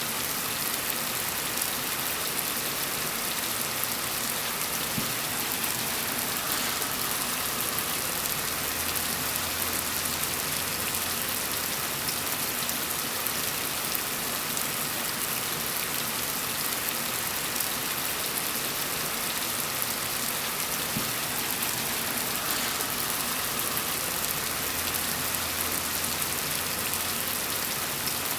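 Steady rain falling, an even hiss with fine pattering of drops, with a faint low hum that comes and goes underneath.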